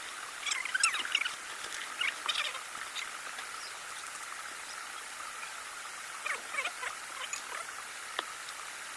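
Frogs calling in short chirps, in scattered clusters over a steady background hiss.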